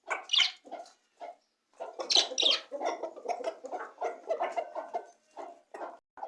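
Budgies chirping and chattering in quick, irregular bursts, with loud shrill calls about half a second in and again around two seconds in.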